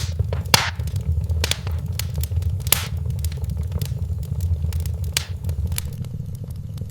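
Wood fire crackling in a fireplace: irregular snaps and a few louder pops over a steady low rumble, the pops thinning out near the end.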